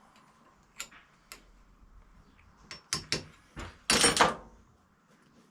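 Hammer tapping a small chisel against a broken steel bolt stub to knock it round and unscrew it: a few scattered light metallic taps, then a louder cluster of blows about four seconds in.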